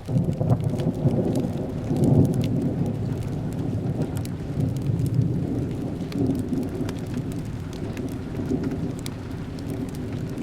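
Steady rain with a low rolling rumble of thunder that breaks in suddenly at the start, peaks about two seconds in and keeps rumbling. Scattered sharp crackles from a fireplace run through it.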